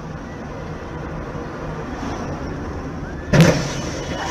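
Steady road and engine noise of a moving car, then a sudden loud crash about three and a half seconds in, with a smaller knock near the end: a car collision.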